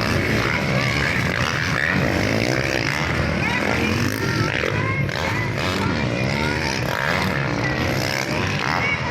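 Several motocross bikes racing, their engines revving up and down in pitch and overlapping, with crowd voices mixed in.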